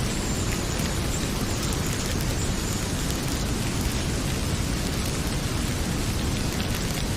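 Heavy rain pouring steadily, with small sharp crackles of a wood fire scattered through it.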